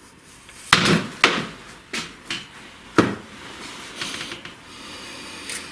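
Sharp metal knocks and taps, three loud ones in the first three seconds and a few lighter ones between them, as a piston is driven through a ring compressor into a cylinder of a VAZ-2102 engine block.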